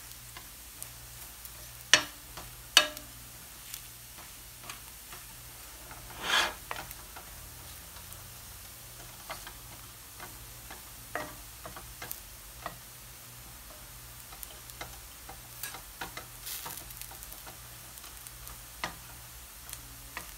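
Instant noodles frying in hot oil in a nonstick pan, a low sizzle, while a wooden spatula presses and scrapes them against the pan. There are two sharp knocks about two seconds in, a longer scrape around six seconds, and scattered soft taps.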